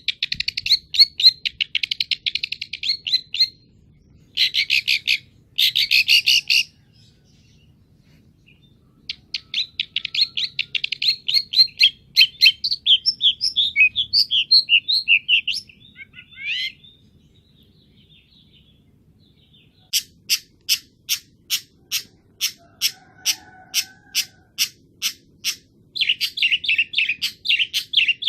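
Long-tailed shrike (cendet) singing in bouts of rapid, high chattering notes separated by pauses. Later it gives a run of sharp, evenly spaced ticks, about two a second, before chattering again near the end.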